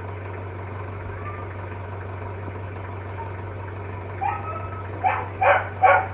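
A dog barking about four times in the last two seconds, three barks in quick succession, over a steady low hum.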